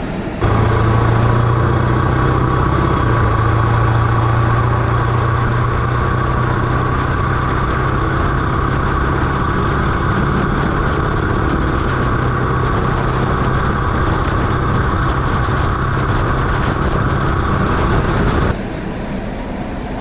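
Ford Super Duty's 7.3 Powerstroke turbo-diesel V8 running steadily as the truck drives down the road at an even speed, with road noise. The sound cuts in sharply about half a second in and cuts off sharply near the end.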